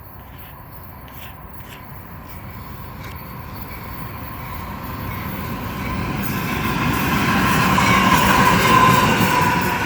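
A diesel-powered freight train approaching up a grade, its engine rumble and wheel noise growing steadily louder as it nears. A thin high whine comes in over the rumble near the end.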